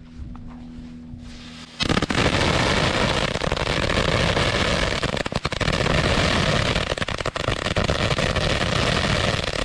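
Large firecracker going off: about two seconds in it bursts into a loud, continuous rush of rapid pops and hiss that runs for about eight seconds, then cuts off.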